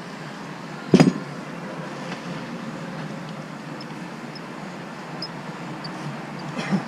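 Mini excavator running steadily, with a loud metallic clank about a second in and a smaller knock near the end, typical of the bucket striking metal or hard ground.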